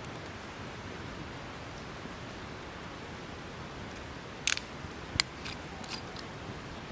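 Wood fire burning with a steady hiss and a few sharp crackles and pops past the middle, two of them clearly louder than the rest.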